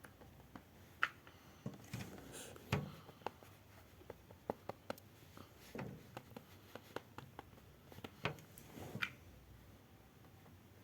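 Scattered light taps, clicks and rubbing from hands handling small objects close to the microphone, with a few sharper knocks about 1, 3, 6, 8 and 9 seconds in.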